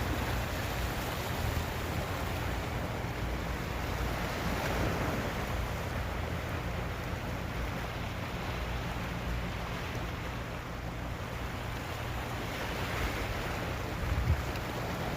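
Wind rushing over the microphone of a moving motorcycle, with a low, steady drone of engine and road noise underneath. There is a short knock about 14 seconds in.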